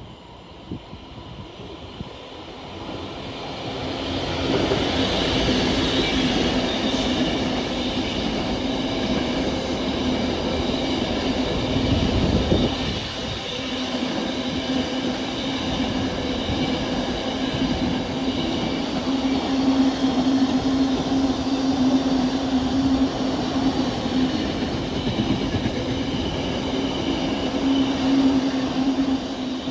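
A train passing on the line: the sound builds over the first few seconds, then holds loud and steady with a constant hum and the clatter of wheels on the rails, with a heavier rumble about twelve seconds in.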